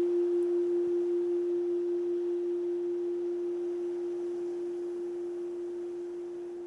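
Keisu, a Japanese Zen temple bowl bell, ringing out after a strike: one low steady tone with a slow waver, fading gradually.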